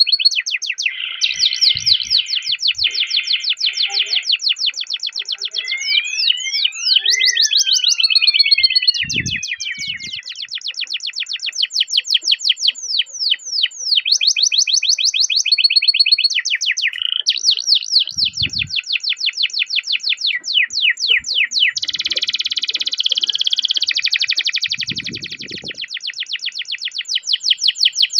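Domestic canary singing a long unbroken song of fast rolling trills, rapid runs of short repeated chirps with a few held whistled notes between them. About six to eight seconds in come crossing whistles that rise and fall.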